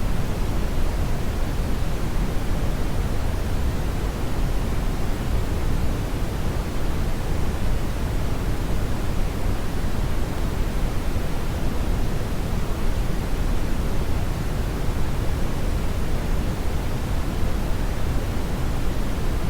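Steady, loud brown noise: an even, unchanging rumbling hiss with most of its energy in the low bass, thinning toward the treble.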